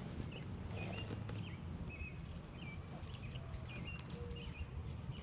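A small bird chirping: a run of short, thin, high notes about two a second, over a low steady outdoor rumble, with a few faint clicks about a second in.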